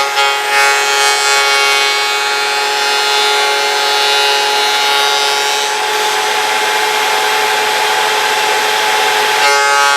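Vevor electric wood planer running with a steady whine while its cutter shaves a board; it cuts off right at the end.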